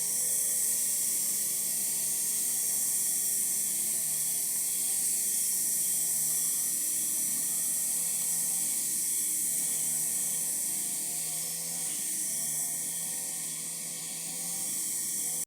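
Steady high-pitched chorus of insects, katydids among them, with a faint low hum underneath.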